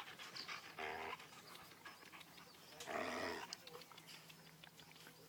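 Sled dogs at play, two short vocalisations: one about a second in and a longer, louder one about three seconds in.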